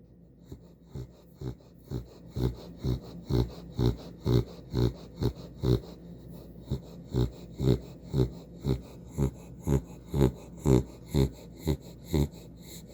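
A dog snoring in its sleep: short snores about twice a second, with a brief pause around six seconds in.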